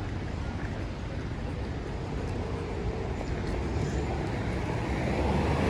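Street traffic on wet asphalt: a steady hiss of car tyres and engines, growing louder near the end as a vehicle draws closer.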